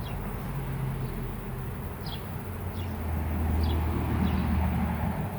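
A honey bee swarm buzzing with a steady low hum as the bees move into a new hive box and begin fanning; the hum swells about three seconds in. Short high chirps of a bird come through several times.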